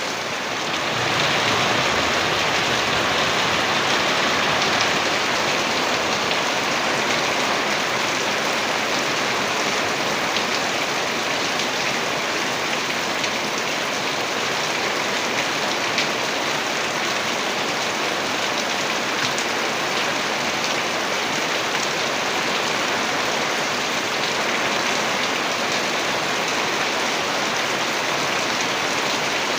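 Heavy rain pouring down steadily, a dense even hiss of drops with no pauses; it is a little softer for the first second before settling at full strength.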